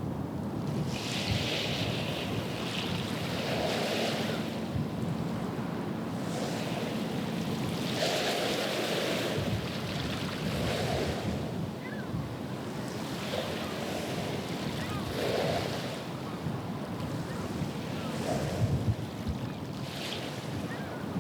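Small waves washing onto the river shore in repeated swashes every two to three seconds, with a low rumble of wind on the microphone.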